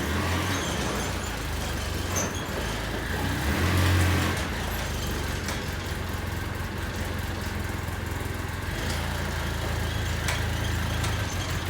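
Engine running at a steady idle with a low hum, swelling briefly about four seconds in.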